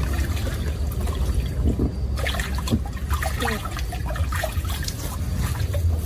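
Swimming-pool water splashing and gurgling in small, irregular bursts over a steady low rumble.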